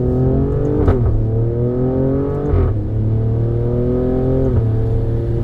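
Alfa Romeo Stelvio Quadrifoglio's twin-turbo V6, fitted with K&N air filters, accelerating under load: the engine note climbs steadily and drops three times as the gearbox upshifts, about one, two and a half and four and a half seconds in.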